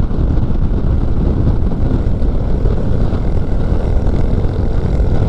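Motorcycle riding along at steady cruising speed, heard from the rider's own mic: a constant low engine rumble mixed with wind rush.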